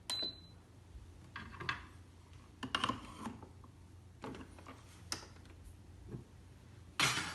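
Handling a Tchibo coffee machine: scattered plastic clicks, knocks and rustles, with a short high beep right at the start and a louder clack near the end.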